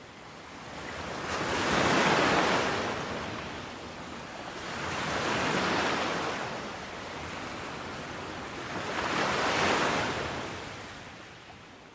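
Ocean waves washing in, three swells about four seconds apart, dying away near the end.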